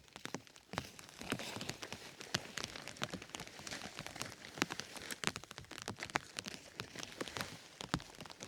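Heavy rain falling, a steady hiss with many sharp, irregular drop ticks striking a surface close by.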